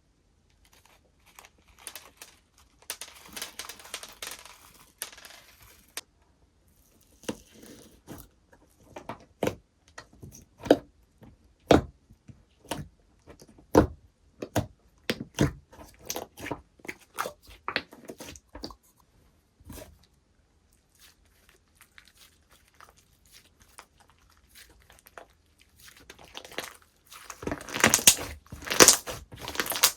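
Hands playing with slime: soft stretching, then a run of sharp popping clicks as it is pressed and folded, and a dense crackly crunching near the end.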